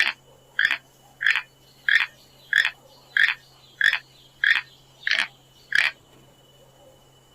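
An animal's short call, repeated ten times at an even pace of about one every 0.6 seconds, then stopping about a second and a half before the end.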